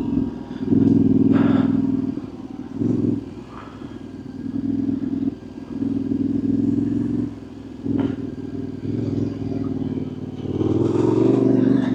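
Yamaha Ténéré 700's parallel-twin engine ridden slowly off-road, the throttle opened and eased off in short repeated bursts, with a couple of sharp knocks.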